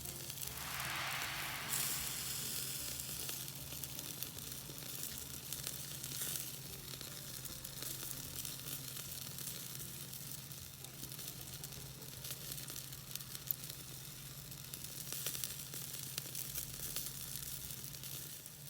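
Chicken wings sizzling on a small grill over the fire, a dense, steady crackle and spit of fat in the heat.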